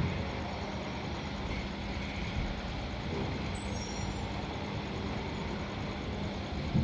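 Engine of a mobile crane running steadily, a constant low hum and rumble.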